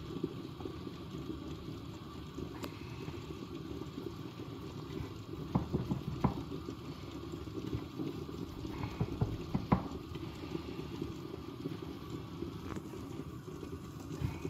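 A few light knocks and clicks from handling bowls and chicken while breading cutlets, grouped about six seconds in and again near ten seconds, over a steady low rumble.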